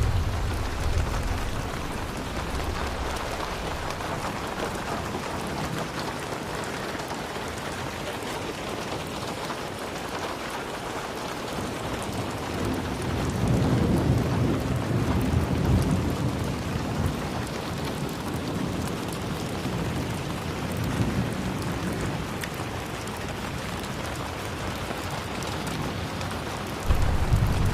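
Steady rain, with a low rumble of thunder swelling about halfway through and another rumble starting near the end.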